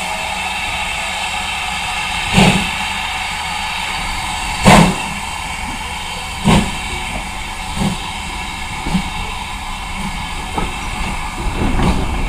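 Steam locomotive starting away: heavy exhaust chuffs over a steady hiss of steam, the first three widely spaced and loudest, then coming closer together and softer.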